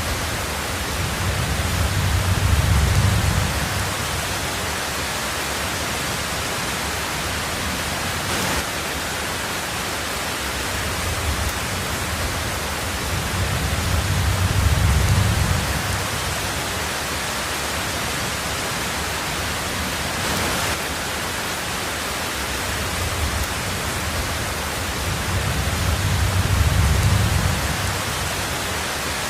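Heavy rain on a tin roof, a steady hiss, with low rolls of distant thunder swelling and fading three times, about twelve seconds apart.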